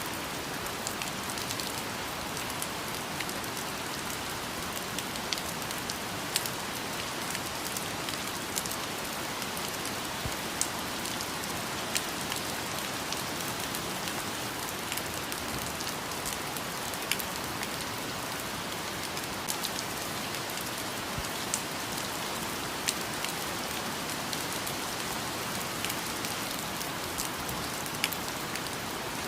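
Steady rain falling on a surface, with scattered louder individual drops hitting close by.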